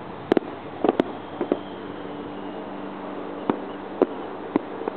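Aerial fireworks shells bursting: a handful of sharp bangs and crackles at irregular intervals, over a steady low hum.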